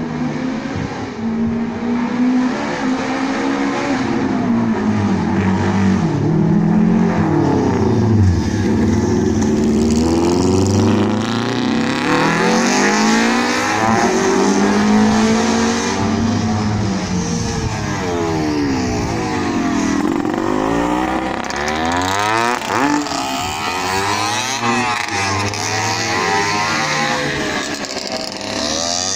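Several classic racing motorcycles revving hard and passing by one after another. Their engine notes overlap, rising and falling through the gears and sweeping down in pitch as each machine goes past.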